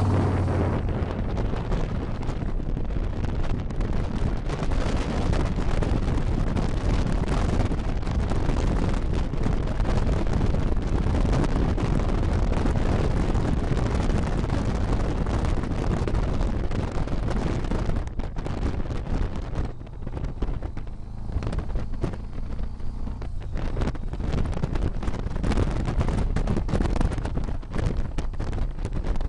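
Wind buffeting the microphone on a moving motorcycle: a steady rushing noise that drowns out the engine. It eases briefly about twenty seconds in.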